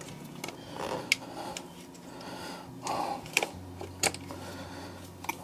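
Scattered light clicks and taps of hands working plastic fuel filter parts, twisting the new fuel filter into its housing on a Ford 6.7 Powerstroke diesel.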